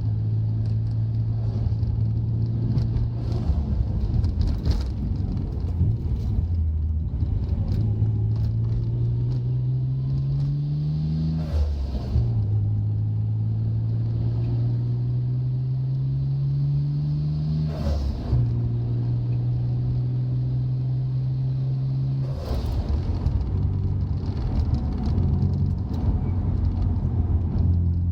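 Nissan Skyline GT-R's twin-turbo straight-six (RB26DETT) pulling the car along, heard from inside the cabin. The engine note rises twice as the car accelerates through the gears, breaking briefly at each shift about 12 and 18 seconds in, and otherwise holds steady while cruising.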